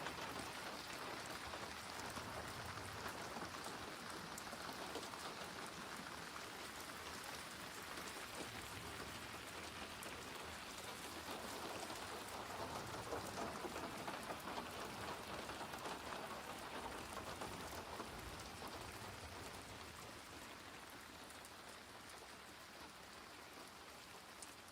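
Steady rain falling on a surface, fading out gradually over the last several seconds.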